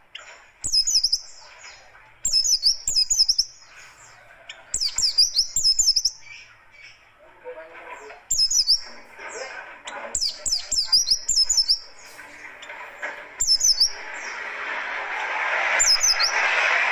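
A pleci dakun (white-eye) singing its fast, rough song: short bursts of rapid, high, sharp notes, repeated every second or two. A hiss of background noise swells under the song near the end.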